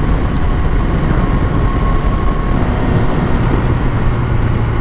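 Motorcycle riding at speed: steady wind rush over the rider's microphone with the engine droning underneath, the low engine note growing stronger about three seconds in.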